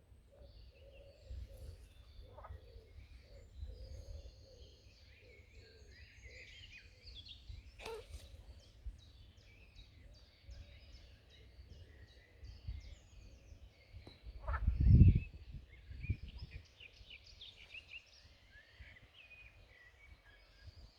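Small birds chirping and singing over a pond, with short, low croaks from frogs repeating through the first part. About fifteen seconds in there is a brief, loud low rumble.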